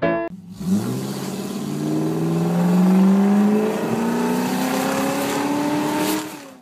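Car engine accelerating, its pitch rising steadily for about five seconds, then fading out near the end.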